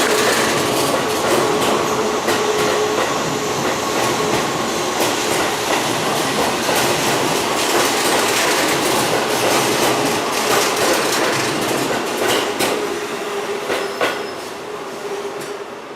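Keihan 2200 series train cars rolling past as the train departs, wheels clattering over the rail joints with a faint steady tone under the rumble; the sound fades near the end as the train pulls away.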